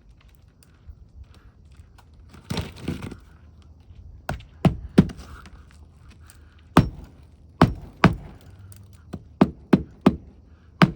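A hammer driving roofing nails into a shingle, sharp strikes in small groups from about four seconds in. A short scraping rustle comes about two and a half seconds in.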